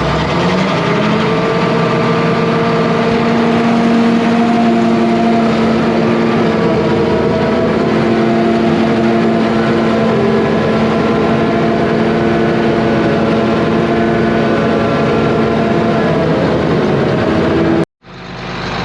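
Diesel engine of heavy earthmoving equipment running steadily, with several held tones that drift slightly in pitch; it cuts off abruptly near the end.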